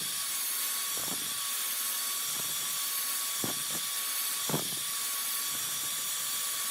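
A high-speed power tool running steadily at one constant pitch with a hissing whine, a few faint knocks sounding through it.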